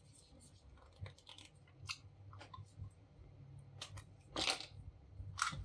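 Small plastic parts being handled and worked by hand: scattered light clicks and taps, with two short, louder scraping rustles near the end.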